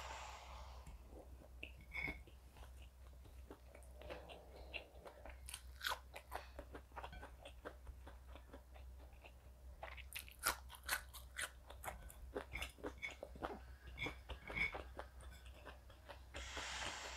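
Close-miked chewing and crunching of crisp fried food: scattered crunches, coming thick and fast about ten seconds in.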